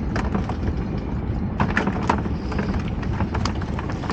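Steady low rumble aboard a small fishing boat at sea, with scattered sharp clicks and taps, a cluster of them about a second and a half in.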